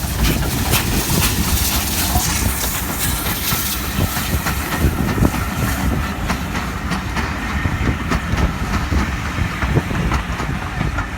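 A train passing close by: a steady low rumble with many short clicks and knocks from the wheels and running gear.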